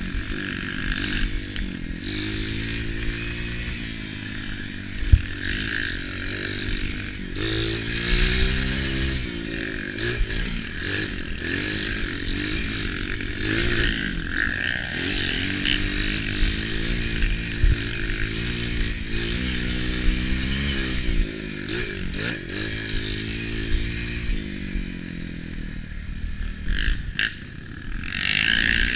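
Off-road trail motorcycle engines running and revving up and down over and over, with a sharp knock about five seconds in.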